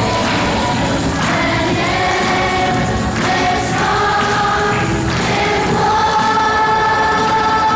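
Children's school choir singing a Christmas song with musical accompaniment, holding long sustained notes.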